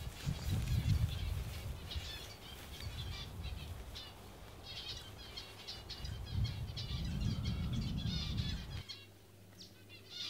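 Small birds chirping and twittering repeatedly over a low wind rumble on the microphone. The rumble cuts off abruptly near the end.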